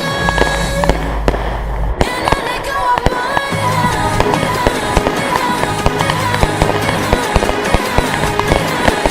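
Fireworks going off in a rapid string of sharp pops and crackles, with music playing underneath.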